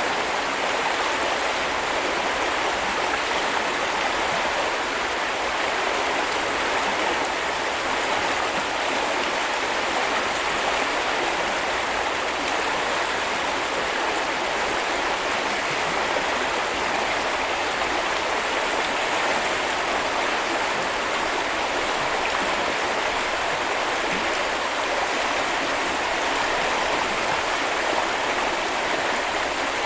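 Small river or stream flowing over stones, a steady even rush of water.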